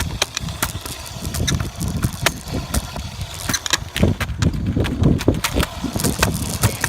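Quick, irregular footfalls and knocks on pavement, several a second, over a low rumble of wind and handling on the phone's microphone.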